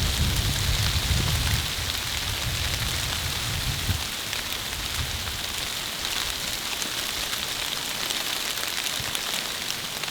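Steady patter of rain, with a low rumble during the first four seconds.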